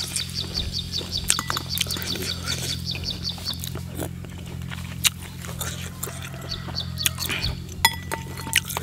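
A bird calling a fast run of short, evenly spaced high chirps, about five or six a second, which stops about three and a half seconds in. Scattered clicks of a spoon against a bowl and mouth sounds of eating are heard throughout, over a low steady hum.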